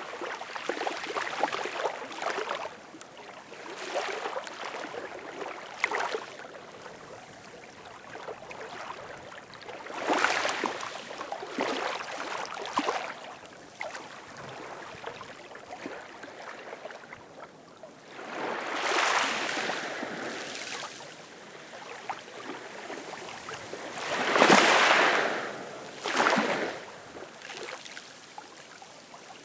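Ocean waves washing in and out, each wash swelling and fading over a second or two with a fizzing, crackling edge. The washes come at irregular intervals, and the loudest one comes near the end.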